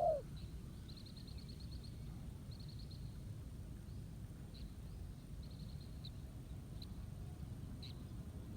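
The last note of a spotted dove's coo right at the start, then faint small-bird trills, several short rapid high bursts and a few single chirps, over a steady low background rumble.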